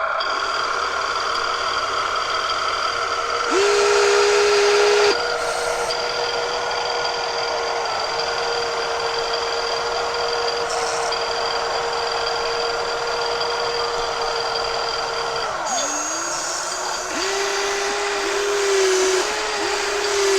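Small electric motors of remote-control toy trucks whining steadily, louder for about a second and a half around four seconds in. After about sixteen seconds the pitch drops and climbs back as the motor speeds up again, wavering near the end.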